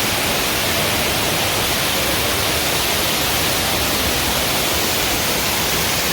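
Waterfall rushing with a steady, unbroken wash of noise.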